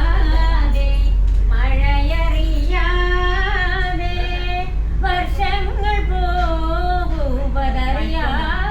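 A person singing a melody alone, with long held notes that bend in pitch, over a steady low hum.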